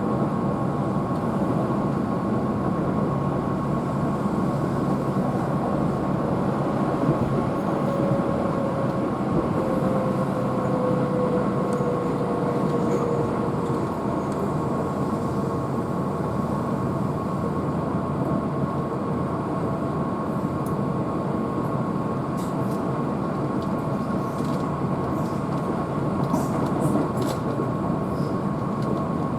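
Keihan electric train running at speed, heard from inside the car: a steady rumble of wheels and running gear with a steady whine. A fainter tone slides gently down in pitch about a third of the way in, and a few faint ticks come near the end.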